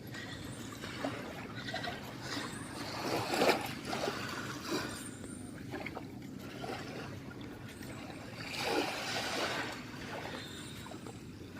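Small waves washing up on a sand beach, a steady wash that swells twice, about three seconds in and again near nine seconds.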